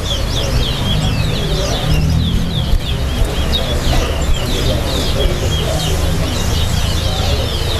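Caged towa-towa seed finches singing a fast, busy song of quick chirped notes that sweep up and down, one after another without a break, over a low steady rumble.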